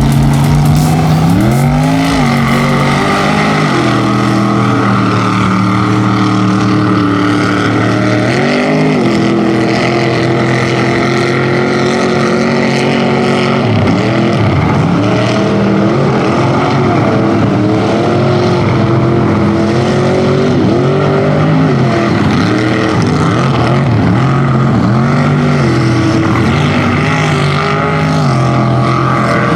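Rear-engine Dodge mud truck's engine running hard at high revs while bogging through mud, its pitch rising and falling over and over as the throttle is worked, with the most dips and surges in the middle part.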